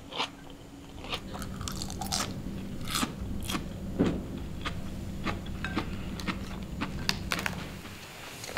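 Crisp raw lettuce crunching as a person bites and chews a mouthful of salad: repeated short, sharp crunches at an uneven pace.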